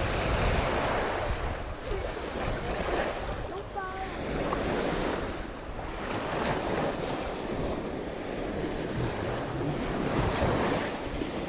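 Sea waves washing onto a beach, a steady rushing surf that swells and eases, with wind buffeting the microphone.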